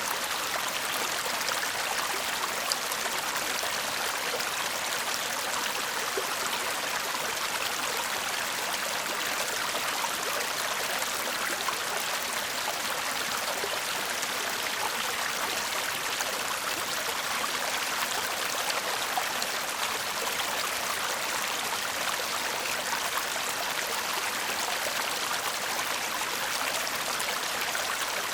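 Shallow stream babbling and trickling over stones, a steady even rush of water.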